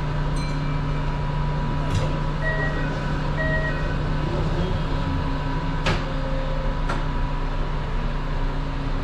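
Steady hum inside a Kintetsu 22000-series ACE electric train, with a few sharp clicks and two short beeps about a second apart near the third second.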